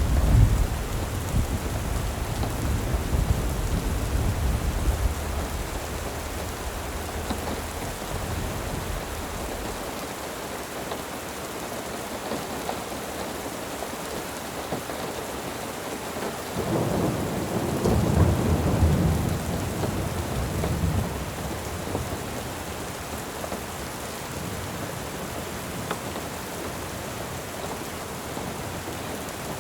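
Steady rain hissing, with rolling thunder: a low rumble dying away over the first several seconds and another swelling up about 17 seconds in, then fading.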